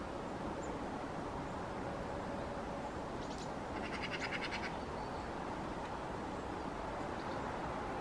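A short, rapid rattle from a bird, about ten ticks a second for under a second, about four seconds in, over a steady background hiss.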